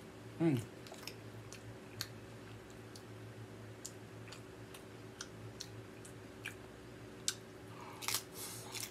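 Loaded tortilla-chip nachos being eaten close to the microphone: scattered crisp crunches and chewing, with a louder run of crunching as a chip is bitten near the end. A brief voice sound with falling pitch about half a second in, over a steady low hum.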